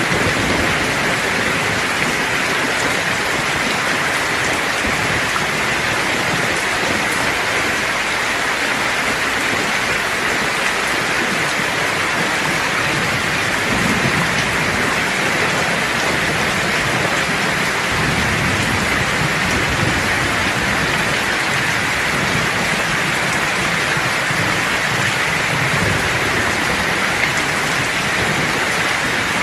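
Steady heavy rain hissing, with low rumbles of thunder rolling under it: a short roll about halfway through and a longer one later on.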